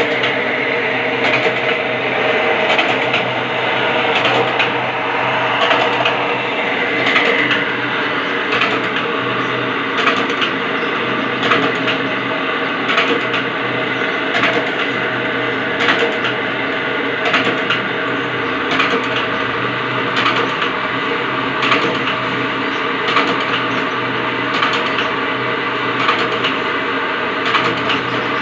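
Wire cutting machine running with a steady hum, and a sharp click every one to two seconds as it cycles.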